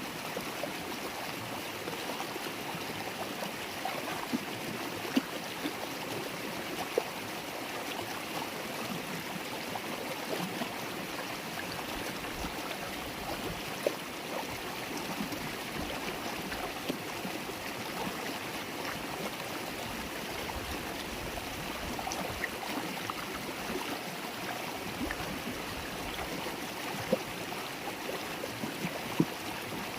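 River water flowing and babbling in a steady rush, with small splashes standing out every few seconds.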